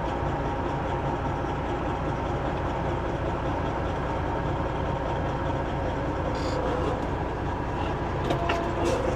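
Semi truck's diesel engine idling steadily, with a few faint clicks near the end.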